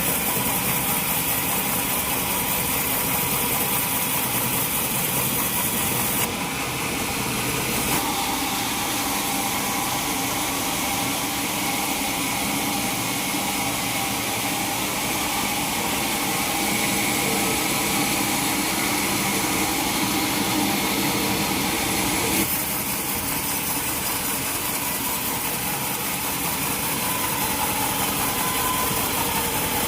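Sawmill saw machinery running steadily on mahogany logs, a continuous mechanical drone with a steady whine over it. The sound changes abruptly about six, eight and twenty-two seconds in.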